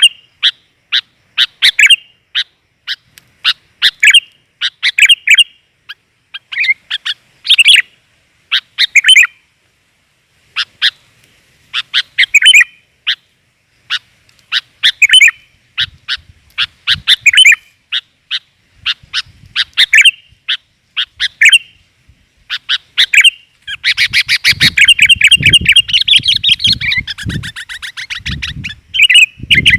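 Sooty-headed bulbul (kutilang) calling: short clusters of bright chirps repeated about once a second, turning about 24 seconds in into a fast continuous chattering run lasting several seconds. Low dull thumps sound under the later part.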